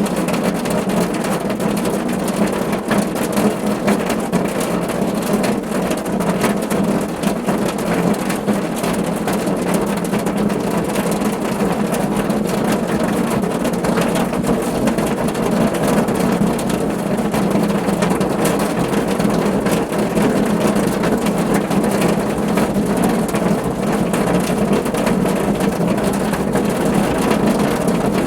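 Steady rain drumming on a car's roof and body, many fine drop impacts over a constant low patter.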